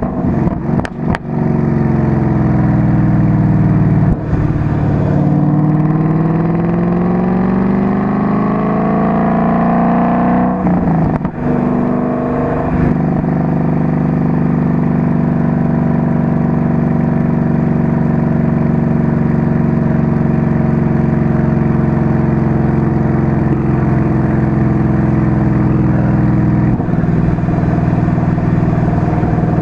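Car engine and exhaust picked up by a microphone on the outside of the car: the engine note climbs steadily in pitch under acceleration for about eight seconds, drops away at a gear change, then drones at a steady pitch while cruising. A few sharp knocks in the first second.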